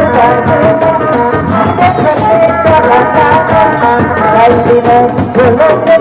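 Traditional Sundanese folk music of the kind that accompanies a sisingaan or kuda lumping show: a loud lead melody that bends in pitch, over busy hand-drum strokes.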